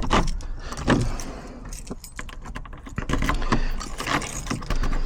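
A bunch of keys jangling and a key clicking and rattling in a front door lock as it is tried from the outside after repair, with many short sharp clicks.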